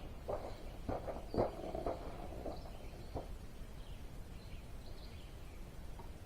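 Faint birds chirping over low outdoor background noise, with a few light knocks and clicks of handling in the first three seconds.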